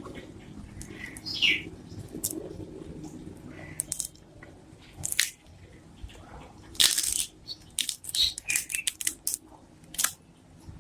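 A string of short clicks, clinks and rustles, the sound of small objects being handled and set down, over a low steady hum.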